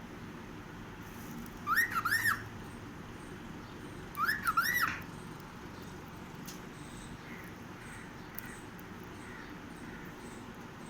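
Cockatiel whistling: two loud phrases of two quick rising-and-falling notes each, about two and a half seconds apart, followed by a few faint short chirps.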